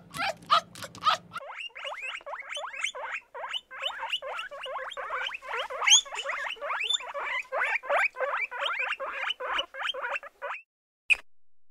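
An animal squeaking in a fast, unbroken series of short chirps, several a second, each falling in pitch; the squeaks stop about a second before the end.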